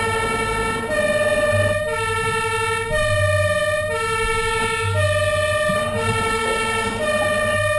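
Fire engine's two-tone hi-lo siren, switching between a lower and a slightly higher note about once a second, over the low rumble of the truck.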